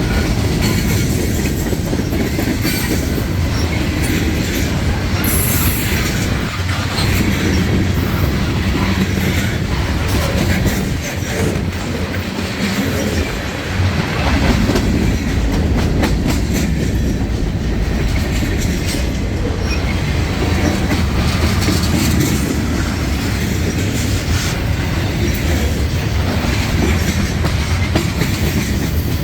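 Freight train cars rolling past, a steady loud rumble with the wheels clattering over rail joints.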